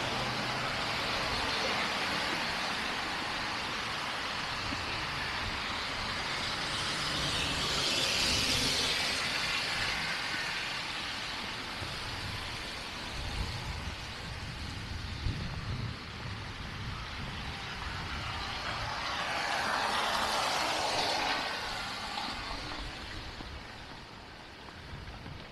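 Road traffic passing on a snowy street: a steady hiss of tyres, swelling twice as vehicles go by, about 8 and 20 seconds in, then fading near the end.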